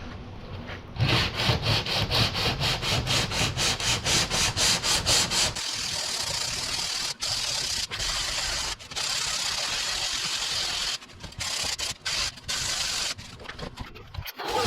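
Sandpaper rasping over cured body filler as it is block sanded: quick back-and-forth strokes, about six a second, then a steady rasp broken by a few short cut-outs.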